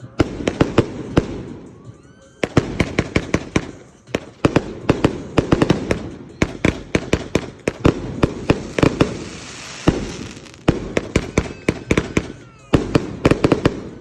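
Fireworks going off: rapid volleys of sharp cracks and pops, each volley lasting a second or two, with short lulls between them.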